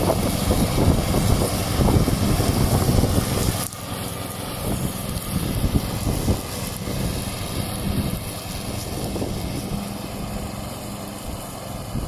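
Petrol lawn mower engine running steadily, its level dropping suddenly about four seconds in.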